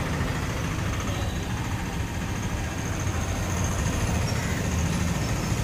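Vehicle engine idling: a steady low rumble with no change in pitch or level.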